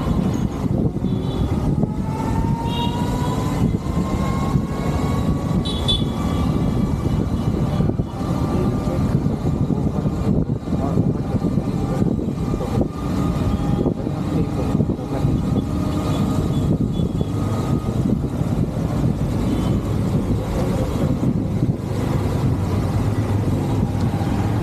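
Motorcycle on the move: its engine running under heavy wind rush on the microphone, with a faint whine that rises slowly in pitch from about two seconds in.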